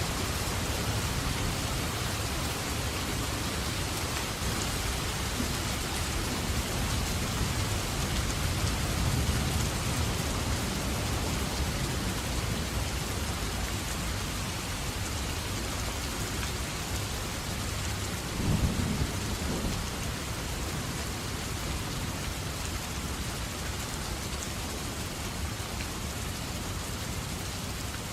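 Steady heavy rain pattering, with thunder rumbling low underneath. The rumble swells about a third of the way in, and a short louder thunder burst comes about two-thirds of the way through.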